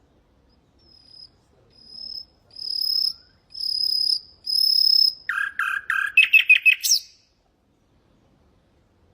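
Common nightingale singing one phrase: a series of drawn-out whistled notes that swell in loudness and length, then a fast run of lower, rattling notes ending in a quick upward flick about seven seconds in.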